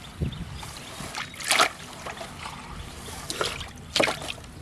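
Water splashing in a few short bursts, three brief splashes, the loudest about a second and a half in.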